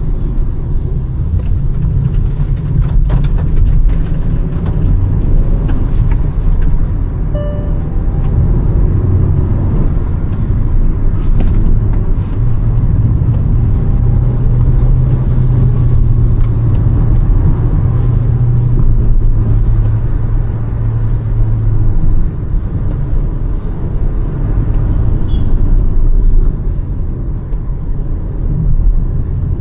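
Hyundai Verna's 1.5 turbo petrol engine and tyre-road rumble while driving. The engine holds a steady, stronger drone for about nine seconds from roughly the middle, then eases back.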